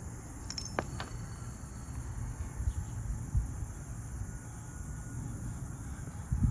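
A few light, sharp metallic clicks of small lock-cylinder wafers being handled, between about half a second and a second in, over a low steady background noise.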